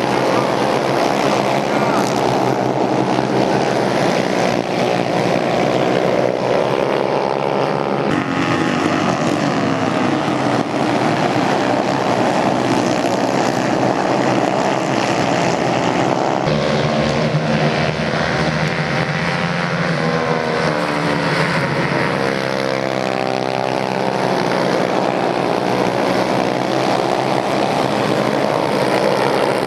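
Several racing motorcycle engines running hard, their pitch rising and falling as they rev, shift and pass by, with abrupt changes about a third and halfway through.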